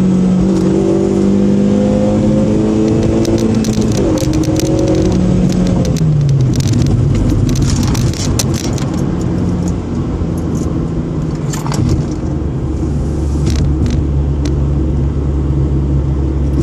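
Engine and road noise inside a moving car's cabin, from a Honda running a Rotrex centrifugal supercharger. The engine note holds and then drops in pitch about six seconds in as the car slows. Through the middle come many sharp clicks and rattles, and the sound settles into a steady low drone near the end.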